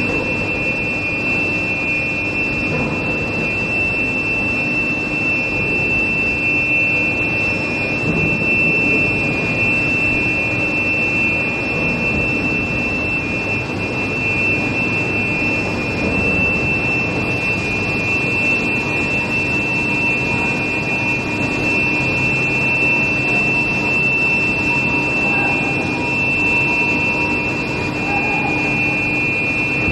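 Steel plate induction heating furnace running: a steady high-pitched whine from the induction coil over constant machinery noise.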